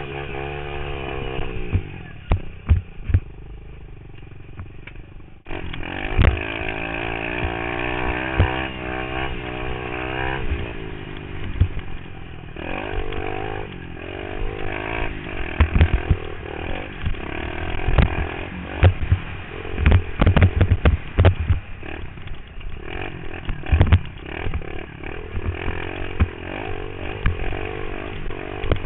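Pit bike engine revving up and down as the bike is ridden round a dirt track, with sharp knocks and clatter from the bike over bumps and landings. The engine drops back to a low, quieter note for a few seconds near the start, then comes back on the throttle about five seconds in.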